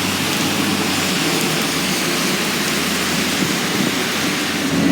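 Steady rain, an even hiss with a low hum underneath.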